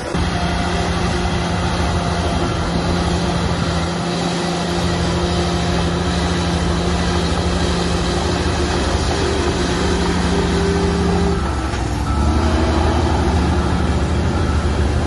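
Shantui bulldozer's diesel engine running steadily while working; about twelve seconds in, the engine note shifts and gets a little louder.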